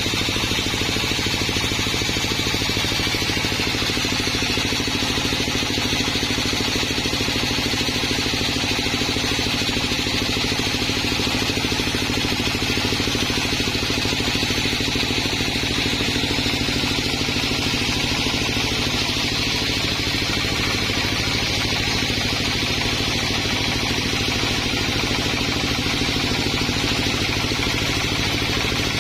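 Sawmill running steadily: an engine-driven mill's motor hums at a constant speed, with a steady high-pitched hiss and some clatter.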